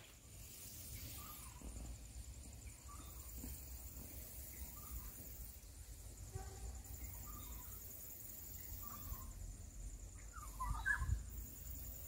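Faint, scattered short bird calls, a few seconds apart, over a low outdoor rumble, with a louder call that slides in pitch near the end.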